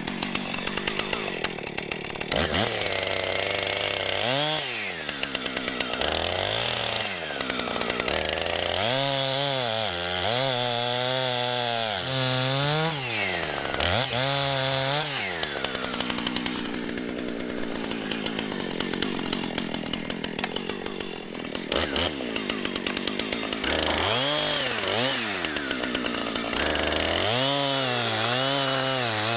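Husqvarna 455 Rancher two-stroke chainsaw bucking logs: the engine repeatedly revs up sharply and drops back, with a longer steady stretch at high revs midway through.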